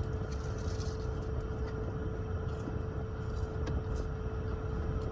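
Steady low rumble and hum of a car cabin with the engine running, with a few faint light clicks over it.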